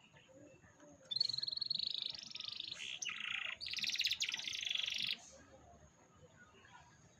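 Domestic canary singing one rapid, trilled song phrase about four seconds long, starting about a second in, with a brief change of note in the middle.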